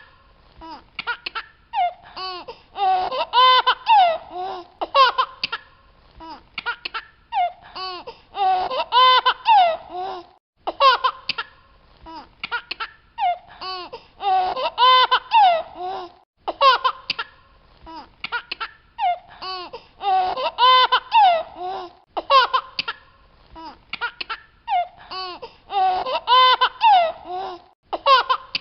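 High-pitched giggling laughter in quick bursts. The same run of laughs recurs about every six seconds, like a repeating loop.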